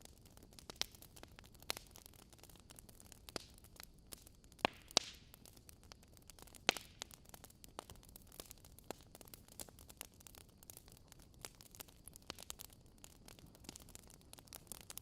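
Wood fire crackling: irregular sharp pops and snaps over a faint steady hiss, with a few louder snaps around the middle.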